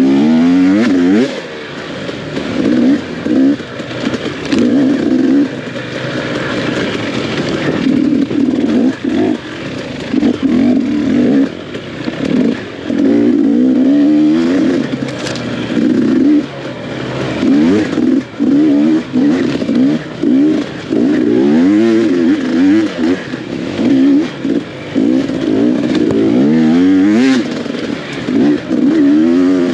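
Off-road dirt bike engine under hard riding, revving up and falling back over and over as the throttle is opened and shut every second or two, with brief drops in sound between the bursts.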